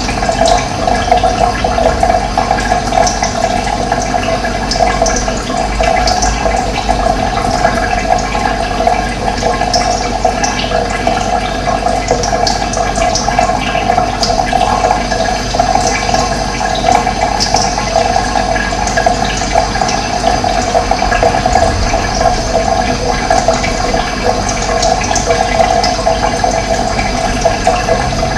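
Running water flowing steadily, with brief high bird chirps scattered over it.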